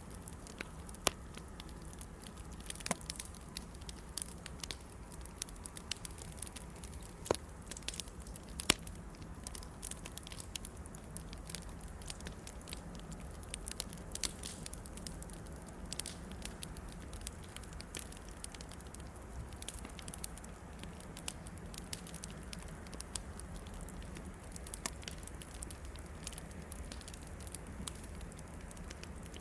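Wood bonfire crackling: irregular sharp pops and snaps, a few of them louder, over a low steady background.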